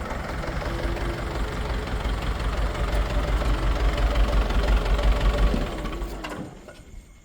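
A motor running with a steady low rumble that dies away about six seconds in.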